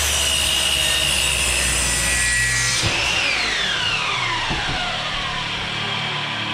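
Handheld electric power tool running at speed with a steady whine, then switched off about three seconds in, its pitch falling as it spins down.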